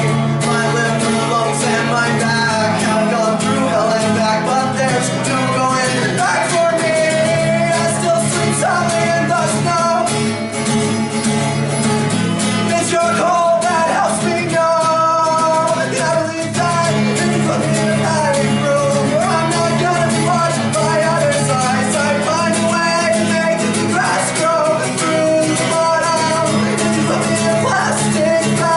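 A mellow song he wrote himself, sung over guitar accompaniment, playing on steadily.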